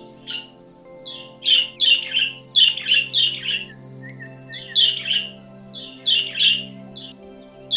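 A bird calling: a rapid series of short, sharp chirps in uneven clusters, over a steady background of music.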